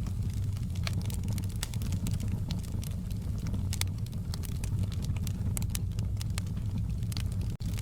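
Fireplace burning: a steady low rumble of flames with frequent, irregular crackles and pops from the wood. A split-second gap in the sound comes near the end.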